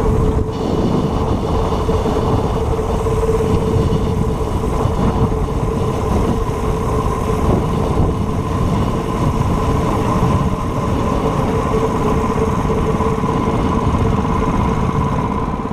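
A vehicle engine running steadily: a dense low rumble with a constant whine held over it.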